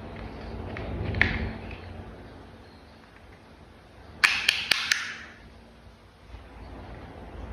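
Hard clicks and taps of plastic toy parts being handled: a single click about a second in, then a quick run of four or five sharp clicks about four seconds in, over low handling rumble.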